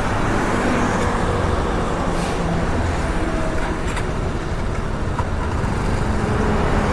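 Motorcycle under way on the road: its engine running steadily beneath a constant rush of wind noise on the microphone, with traffic around.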